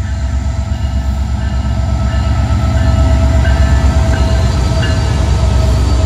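Intermodal freight train passing close by: a deep, steady rumble of its diesel locomotives and rolling wheels, growing louder over the first few seconds, with a thin steady whine above it.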